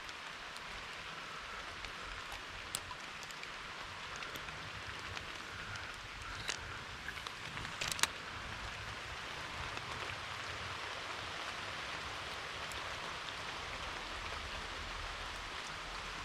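Steady rain falling, with a few sharp ticks about three, six and eight seconds in.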